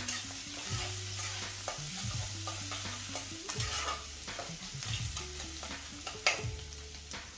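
Chopped onions sizzling as they fry in hot oil in a pan, with a spatula stirring and scraping against the pan in short knocks, one sharper knock about six seconds in.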